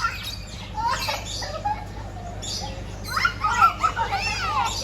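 Birds calling, a string of short chirps and gliding squawks that grow louder and busier in the second half.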